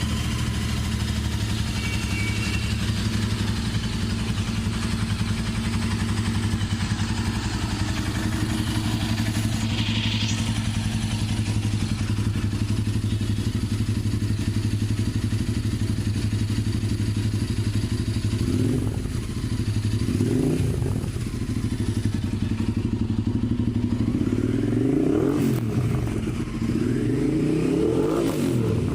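Royal Enfield 650 parallel-twin engine running through a 2-into-1 exhaust, idling steadily, then revved in four short blips in the second half, the last two reaching higher revs.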